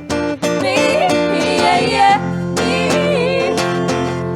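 Live song: a singer's drawn-out, wavering vocal line over acoustic guitar.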